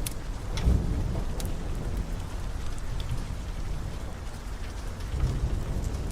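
Steady rain with a low rolling rumble of thunder underneath, and the sharp crackles and pops of a wood fire in a fireplace a few times, mostly in the first half.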